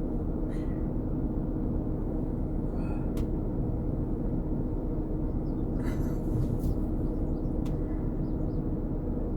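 Steady low rumble and hum inside a parked car with its engine idling, with a few faint clicks.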